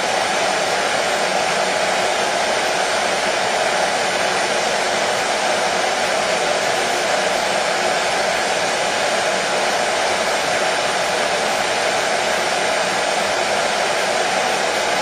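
Hair dryer running steadily at one speed: an even, unbroken rush of air with its strongest part in the middle pitch range.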